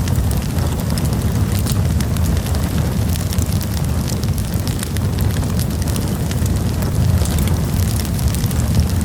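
Campfire burning, with a steady low rumble of flames under frequent sharp wood crackles and pops.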